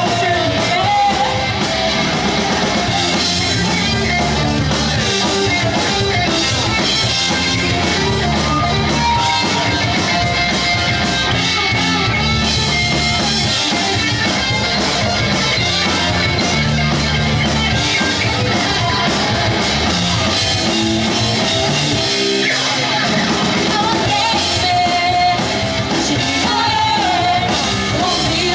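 Live pop-punk band playing a song at full volume, with electric guitars, a drum kit and a lead singer.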